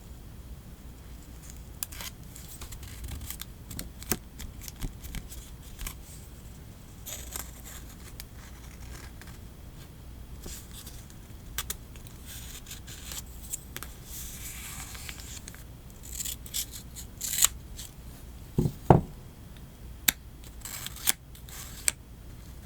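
Scissors snipping through paper and sticker sheets, a scatter of short, crisp cuts with soft paper handling in between, the loudest snips clustered about three-quarters of the way through.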